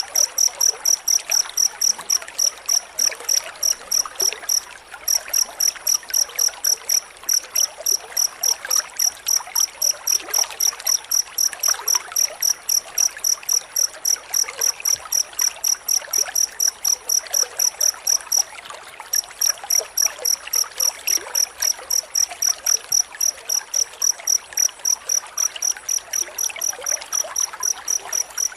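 Cricket chirping in a fast, steady, high-pitched train of about three chirps a second, breaking off briefly twice, near 5 s and 18 s.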